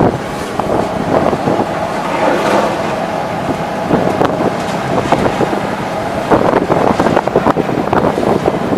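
A demolition excavator's engine running steadily, with irregular crunching and clattering of broken building material throughout.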